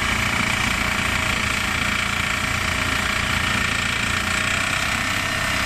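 Tractor engine idling steadily, with a rapid even chug and a faint constant whine.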